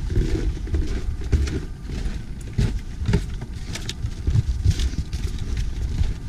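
Wind buffeting the GoPro Hero 5's built-in microphone, an uneven low rumble, with a few short knocks mixed in.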